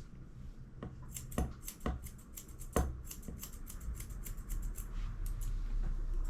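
Grooming scissors snipping fur around a puppy's paw: a fast, irregular run of short crisp cuts, with a few louder clicks among them.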